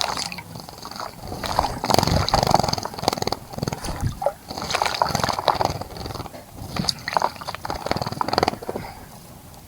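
A small bird bathing in a shallow bird bath, fluttering its wings in the water to make several short bouts of rapid splashing.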